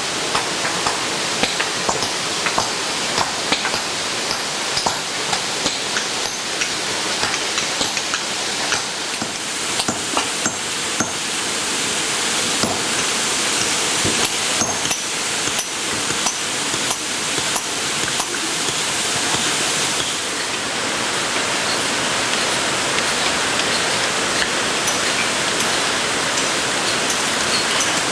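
A tall waterfall: a steady rush of falling water, with many small sharp splashes standing out of it.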